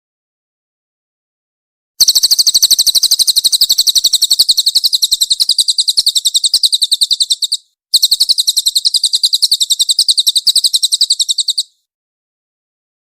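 Cililin bird singing its fast, tightly packed chirping song: two long runs of rapid high notes, about five and four seconds long, with a brief break between.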